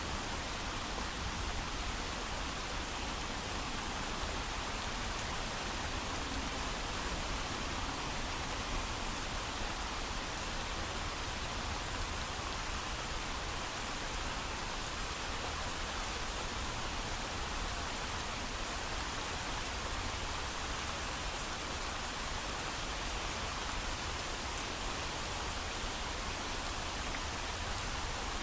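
Steady heavy rain falling without thunder, an even continuous hiss with no separate drops or pauses.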